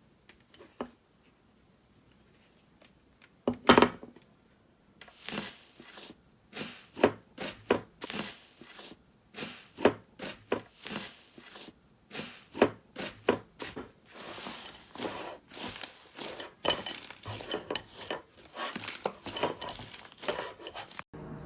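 Slime being handled: after a few quiet seconds and one sharp click, a long irregular run of short sharp pops and squelches, coming faster and denser in the last several seconds.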